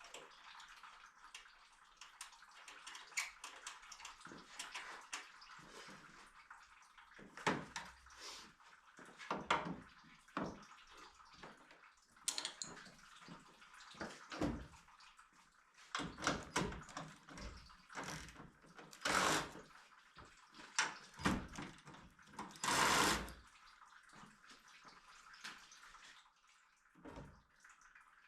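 Hand-tool work on a car: a run of irregular clicks and knocks from tools and parts being handled, with two longer rasping sounds, the loudest, about two-thirds and three-quarters of the way through.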